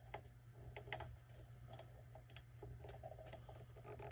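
Near silence: a few faint scattered clicks and light tapping over a low steady hum.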